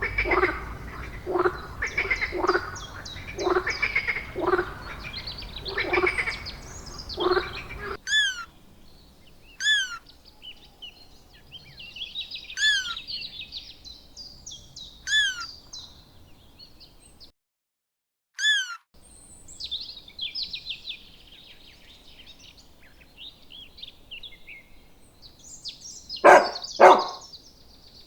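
An animal giving a regular croaking call, about one every three-quarters of a second, for the first eight seconds. It is followed by birds singing: a repeated downward-sweeping call every two to three seconds over quick chirping, with two loud calls near the end.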